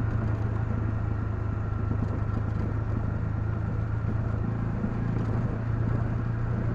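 Honda CL250 motorcycle engine running at a steady cruise, a constant low drone.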